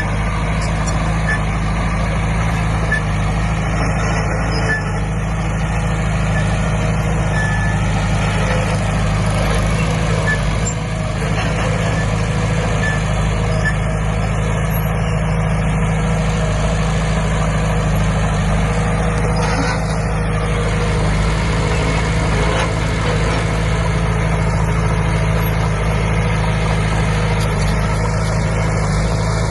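Bulldozer's diesel engine running steadily under load, with faint short beeps now and then.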